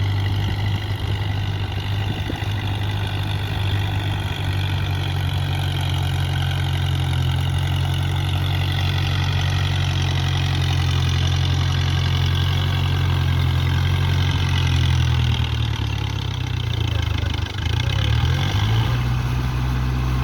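Kubota tractor's diesel engine running steadily at low speed, its pitch wavering and dipping a few times near the end as the engine speed changes.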